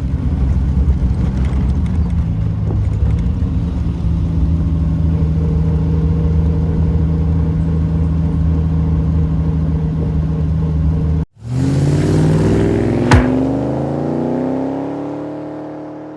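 Triumph TR6's 2.5-litre straight-six running at steady revs. After an abrupt break about 11 seconds in, it accelerates with a rising engine note, with a sharp click partway through, and then fades out.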